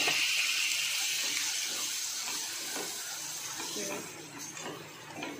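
Raw chicken pieces sizzling in hot fat with fried onions in a stainless-steel pan, the hiss loudest at first and dying down over about four seconds.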